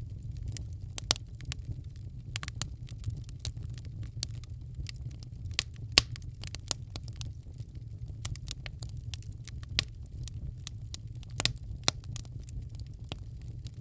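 Wood fire in a fireplace crackling, with irregular sharp pops and snaps over a low steady rumble; one pop about halfway through is louder than the rest.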